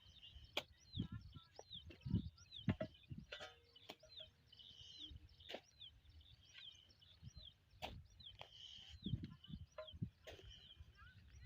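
Birds chirping over and over, short high falling calls, with scattered knocks and low thumps, the loudest about two seconds in.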